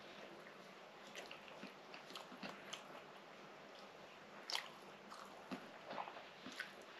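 A person chewing soft baked fatayer bread close to the microphone: faint wet mouth clicks and smacks over a low hiss, the sharpest about four and a half seconds in.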